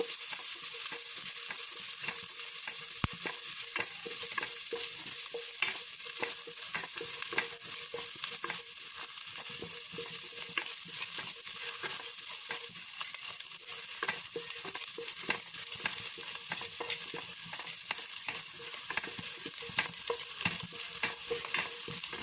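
Chopped ginger and garlic sizzling in melted butter in a frying pan as they are sautéed, with a steady hiss and frequent clicks and scrapes of the stirring utensil against the pan.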